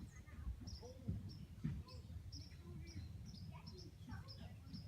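Small birds chirping in the background: short, high chirps repeated quickly, over a low outdoor rumble.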